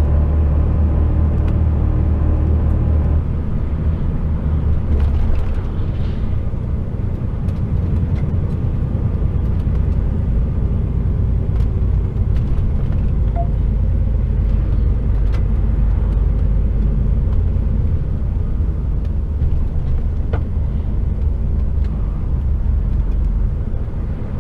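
HGV lorry's diesel engine running, heard from inside the cab as a steady low drone with road rumble; the engine note changes about four seconds in.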